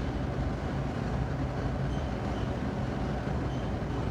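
Steady background noise with a low rumble and no speech.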